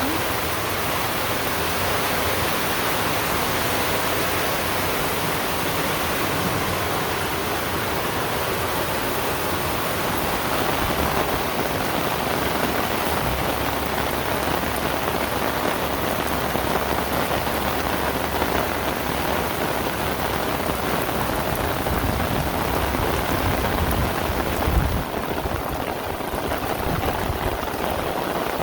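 Heavy rain falling, a dense, steady hiss of rain on the ground and surroundings.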